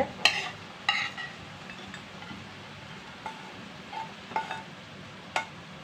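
A metal serving utensil clinking against a pan and a plate, about six short separate clinks with a brief ring, as fried small birds are dished out; the sharpest clink comes near the end.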